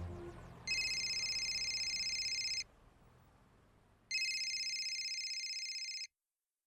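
A telephone ringing with a fast trill: two rings of about two seconds each, a second and a half apart.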